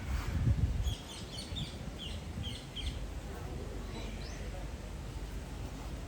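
A small bird chirping: a quick run of short chirps lasting about two seconds, then one more a little later. Under them is a low rumble that is loudest in the first second.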